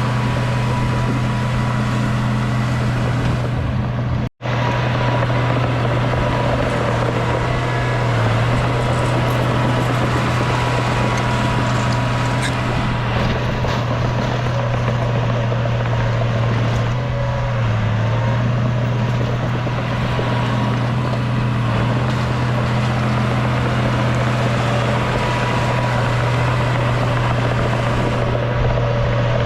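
Heavy diesel earthmoving machine, a bulldozer, running steadily with a constant low drone. The sound cuts out for an instant about four seconds in.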